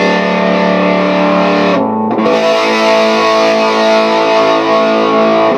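Electric guitar played through a Sola Sound Green Bastard MkII fuzz pedal into a Savage Rohr amp: a sustained chord rings out, stops briefly just before two seconds in, and a second chord is struck and left to ring.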